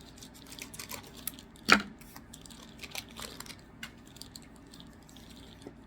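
Trading cards being handled and flipped through: a run of small, irregular clicks and light rustles, with one sharper click a little under two seconds in.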